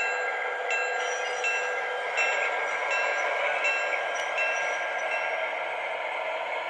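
Electronic locomotive bell from an MTH model diesel locomotive's sound system, ringing steadily in even strokes over the model train's running sound. The bell stops about five and a half seconds in.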